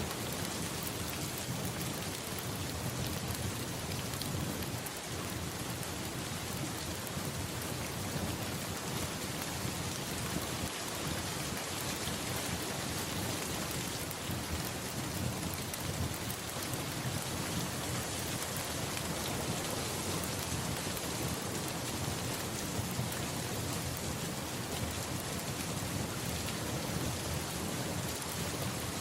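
Steady rain falling on a surface, an even continuous hiss with a low rumble underneath.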